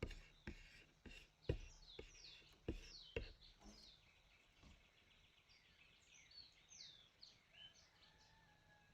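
Faint birdsong: many short, falling chirps from several small birds. In the first three seconds there are also about half a dozen soft, low thumps.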